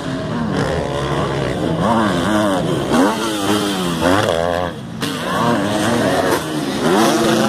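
Motocross bikes running on the track, engines revving up in repeated rising climbs that drop back sharply at each gear change or throttle-off, with several bikes overlapping.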